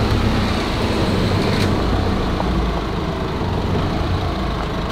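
Diesel ute engine idling with a steady low rumble, and a light click about a second and a half in.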